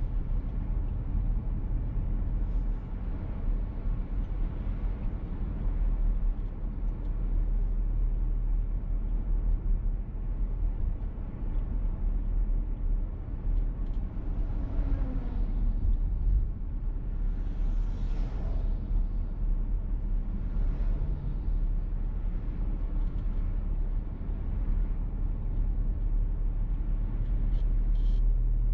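Petrol VW T-Roc driving, heard from inside the cabin: steady engine and road rumble, with two brief swells of louder noise about halfway through.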